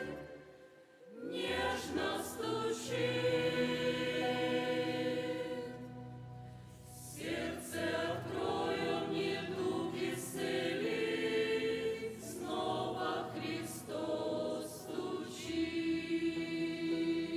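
Church choir singing a hymn in sustained phrases, with brief pauses between phrases just after the start and again about six seconds in.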